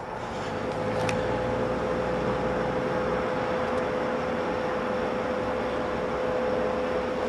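Steady noise of road traffic with a constant hum running through it.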